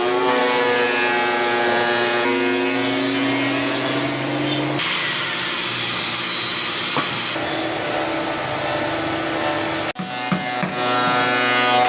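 Electric woodworking power tools running and cutting wood, a steady motor whine that switches abruptly to a different tool every couple of seconds.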